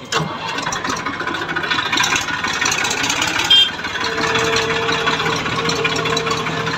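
Tractor diesel engine running with a dense rattle as the tractor edges forward. There is a sharp click about three and a half seconds in, and a steady hum sets in soon after.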